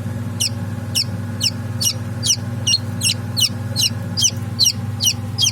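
Newly hatched Kadaknath chick peeping: a steady series of short, high, downward-sliding peeps, about two to three a second, over a steady low hum.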